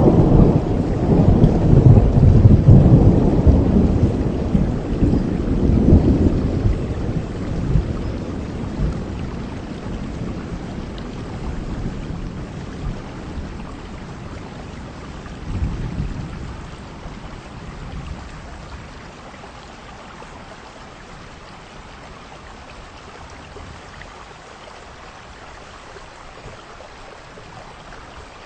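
Heavy rain falling steadily with a long peal of thunder rumbling loud at the start and dying away over about ten seconds, a shorter rumble around the middle, then only the steady hiss of rain.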